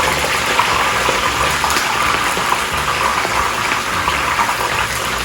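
Pandan-wrapped chicken wings deep-frying in oil at about 180 °C: a steady sizzle with small crackles. The sizzle is the sign of perfectly hot oil.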